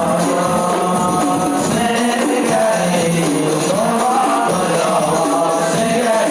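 Rebana frame drums beaten in a steady rhythm, with voices singing a melody over them.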